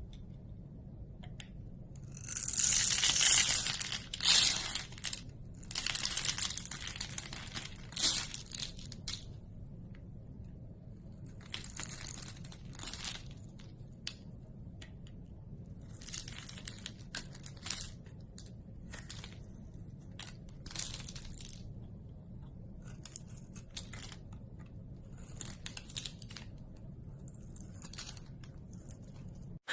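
Packaging being crinkled and torn in irregular bursts, loudest in the first several seconds, then fainter intermittent handling over a faint steady hum.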